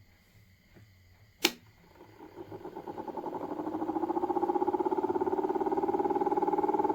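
A switch clicks, then a small battery-powered electric motor spins up, its fluttering hum rising in pitch and loudness for about two seconds before settling into a steady run.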